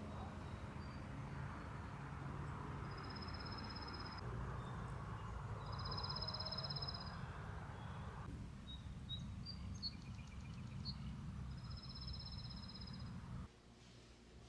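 A bird gives a high, buzzy trilled call three times, a few seconds apart, with a few short chirps between. A steady background hiss runs under the calls and drops off abruptly near the end.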